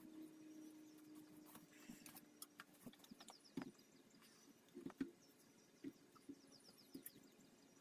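Near silence with faint scattered taps and clicks and a few faint, quick bird chirps. A low steady hum fades out in the first couple of seconds.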